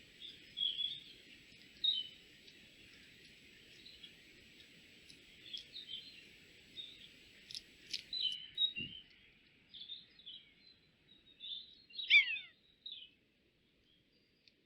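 Small woodland birds chirping, with scattered short calls and a quick run of falling notes about twelve seconds in. A faint steady high whine stops about eight seconds in, and a single low thump comes shortly after.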